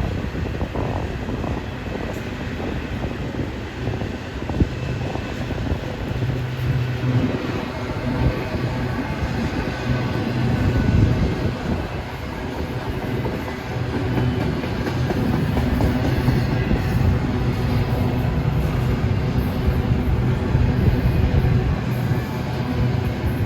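Freight train rolling past, a continuous low rumble that holds steady throughout.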